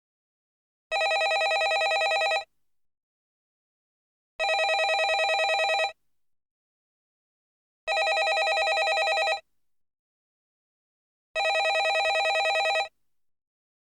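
Landline telephone ringing: four rings, each about a second and a half long, with about two seconds of silence between them.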